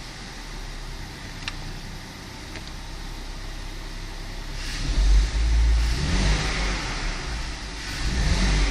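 BMW E60 520i's 2.2-litre M54 straight-six running at idle, then revved up twice, once around halfway through and again near the end. The owner suspects an unmetered air leak on this engine.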